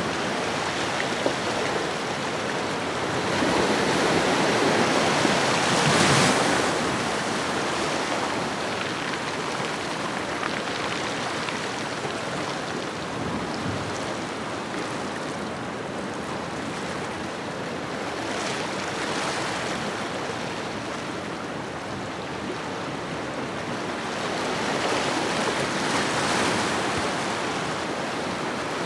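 Ocean waves washing onto a shoreline: a steady hiss of surf that swells and ebbs slowly, with the biggest wash about five seconds in and further, softer swells around the middle and near the end.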